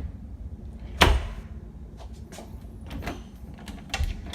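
Wooden interior door, its sticking edge freshly sanded, shutting with one loud knock about a second in and no scraping, followed by two lighter knocks later on.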